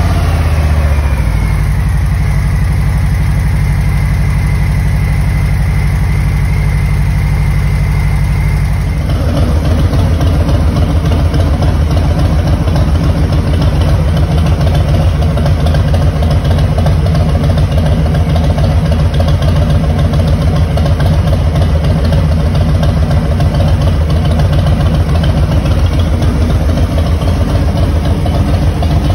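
Harley-Davidson Street Bob's Milwaukee-Eight 107 V-twin idling just after starting, with a faint high whine at first. About nine seconds in, the idle turns suddenly louder and deeper, with a stronger pulsing beat, and holds there.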